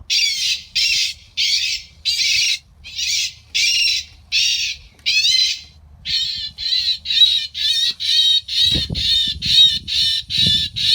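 Bird distress system broadcasting recorded bird distress calls through a loudspeaker to scare blackbirds off corn: loud, harsh squawks repeating about twice a second, coming faster, about three a second, from midway. Low thumps join in near the end.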